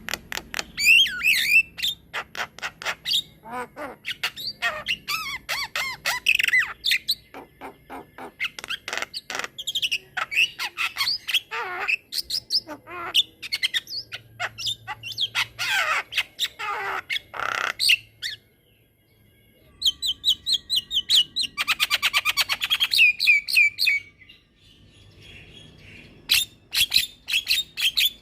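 Javan myna singing a long, varied song of fast clicks, whistled glides and harsh notes. After a short pause about two-thirds of the way through, it delivers a fast rolling trill of rapidly repeated notes.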